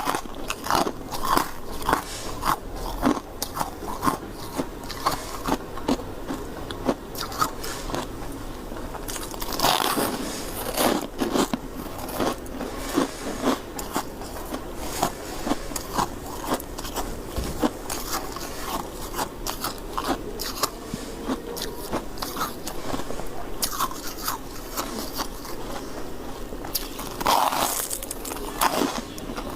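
A person biting and chewing white shaved ice close to the microphone: many crisp, irregular crunches, with louder bites about ten seconds in and again near the end.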